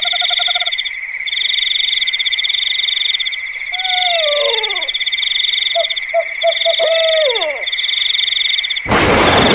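Night ambience of insects trilling in long repeated bouts over a steady high whine, with pulsed, frog-like croaking and falling whistled calls twice. A sudden loud rush of noise cuts in near the end.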